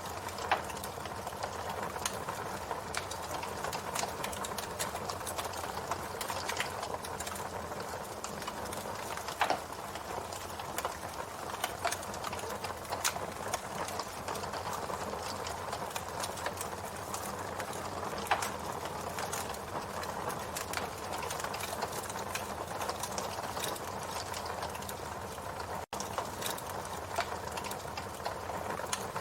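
Campfire crackling: a steady hiss of burning wood with frequent small crackles and a few louder pops, about half a second in, near ten seconds and near eighteen seconds.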